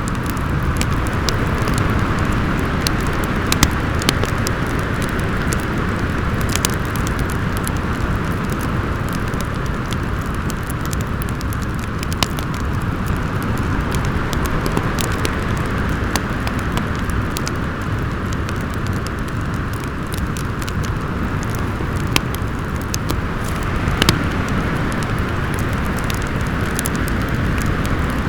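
Steady wind noise with a wood fire crackling over it: scattered, irregular sharp pops, a few of them louder.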